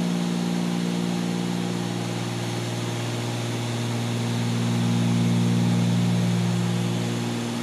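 Cabin drone of a Cessna 310Q's twin piston engines and propellers under climb power: a steady low hum over a hiss, swelling slightly and fading back around the middle.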